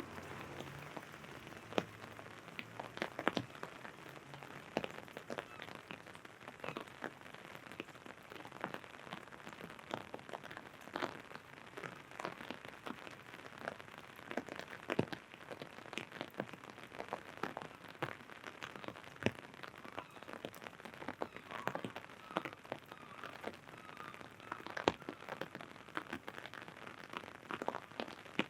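Rain falling on an umbrella: a steady hiss of rain with many irregular sharp taps of larger drops striking the canopy.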